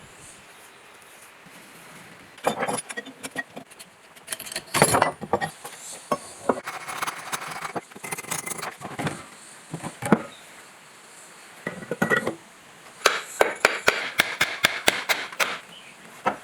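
Hand tools clinking and tapping on metal motor parts in irregular runs of sharp clicks and knocks, with a fast clattering run near the end.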